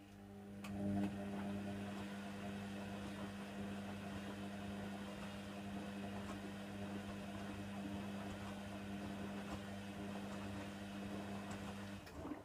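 Hoover Nextra HNWL7146 washer-dryer running a steady mains hum with a rushing haze over it, switching on at once and cutting off abruptly after about twelve seconds, one of the machine's parts working in a burst partway through its cotton wash cycle.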